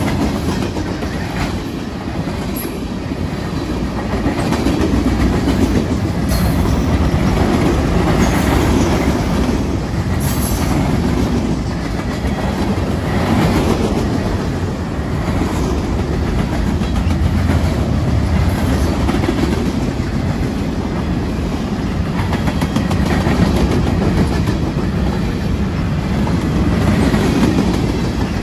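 Freight train's hopper and tank cars rolling past close by: loud, steady noise of steel wheels on the rails, with repeated clicks as the wheels cross rail joints.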